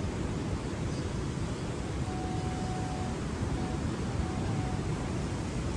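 Steady low rumbling noise with no distinct events, and a faint thin tone that comes in briefly twice around the middle.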